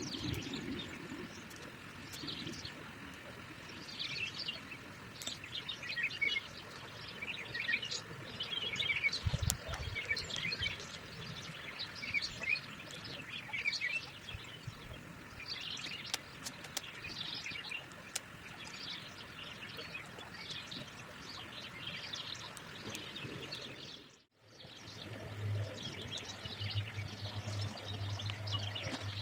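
Several small birds chirping and singing in short repeated notes over a faint steady outdoor background. About three-quarters of the way through, the sound drops out for a moment, and after that a low hum joins in.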